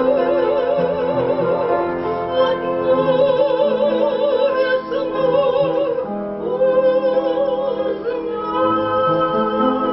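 Operatic singing: a classically trained voice sustains long notes with a wide, regular vibrato over a steady accompaniment, pausing briefly about two seconds in and again about six seconds in.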